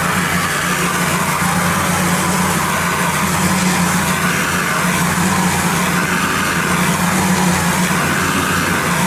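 Gas-engine pressure washer running steadily, with the hiss of its high-pressure water spray swelling and fading as the spray moves across the concrete.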